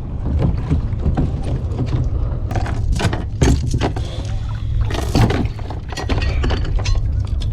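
Fishing gear being handled and stowed aboard a kayak: irregular knocks and clicks, the loudest about three and five seconds in, over a steady rumble of wind on the microphone.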